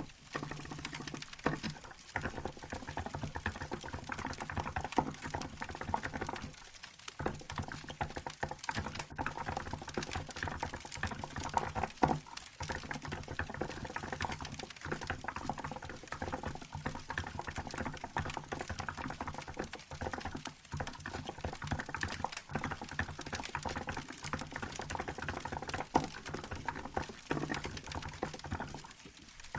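Continuous fast typing on a Hansung GK868B mechanical keyboard with milk-white keycaps: a dense run of key clacks, pausing briefly about seven seconds in and again near the end. A crackling wood-fire sound runs underneath.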